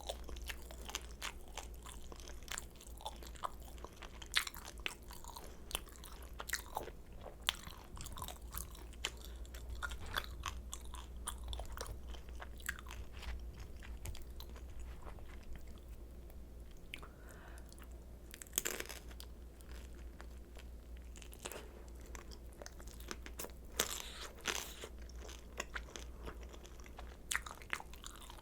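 Close-miked crunching and chewing of pan-fried kimchi dumplings, irregular crisp bites and wet chews.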